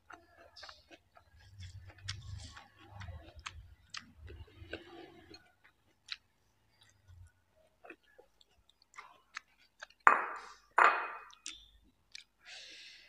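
Close-up eating sounds: crunching of raw lettuce leaves and chewing of rice, with many small wet clicks and smacks, then two much louder sudden sounds about ten and eleven seconds in.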